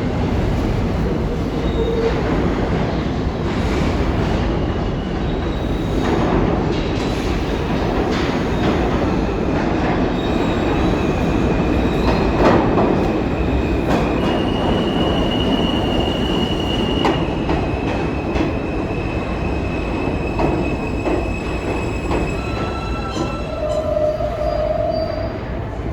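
New York City subway train running on the rails with a steady rumble, its steel wheels squealing in several long, high-pitched squeals, with a lower squeal near the end.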